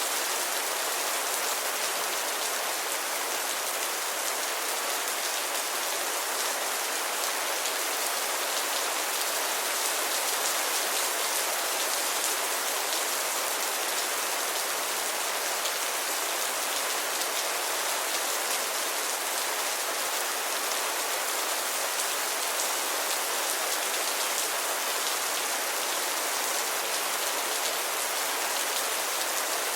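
Steady rain falling, an even hiss of many drops hitting a surface.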